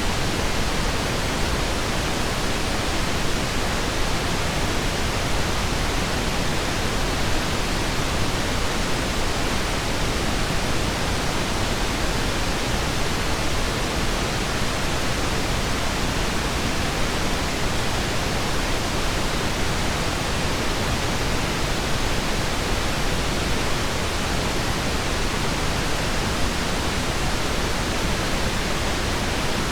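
Steady synthetic pink noise, an even hiss with no tones, clicks or changes.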